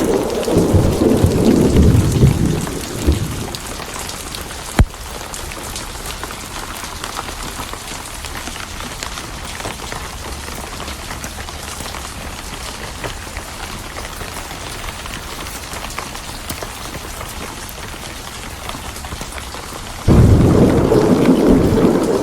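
Steady rain with rolling thunder: a low rumble of thunder fades out over the first few seconds, leaving rain alone with one sharp crack about five seconds in. Near the end another loud rumble of thunder starts abruptly.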